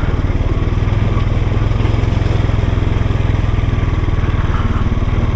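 Off-road vehicle engine running steadily, with an even pulsing beat and no change in speed.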